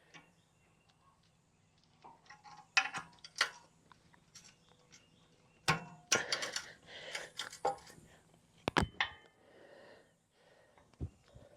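Hands working at the hydraulic hose hookup: irregular sharp clicks and taps with short bursts of rustling, as the hoses are handled and fastened with zip ties.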